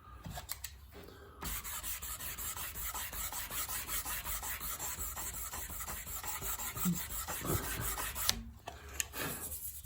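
Hand sanding of a small car part: sandpaper rubbing back and forth in quick strokes, about three a second. It starts about a second and a half in and stops near the end, followed by a couple of small knocks.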